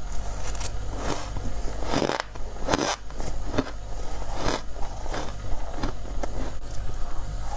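Close-up crunching of freezer frost and ice being bitten, a bite about every second, each a short crackly crunch.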